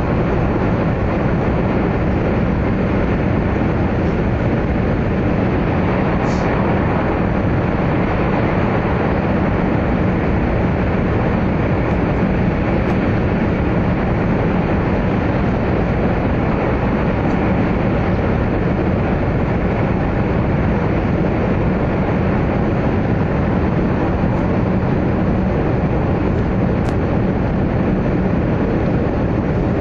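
Inside a 100 Series Shinkansen passenger car running through a long tunnel: the train's steady running rumble, unbroken and even, with a faint low hum underneath.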